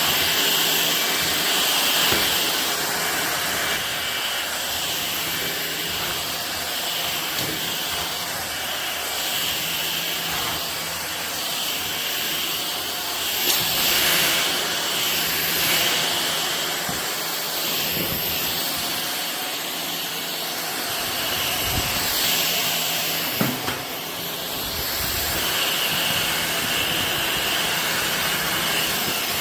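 Ultenic U16 Flex cordless stick vacuum running steadily: a continuous hiss over a low motor hum, with a high whine that swells and fades. There are two brief knocks about three-quarters of the way in.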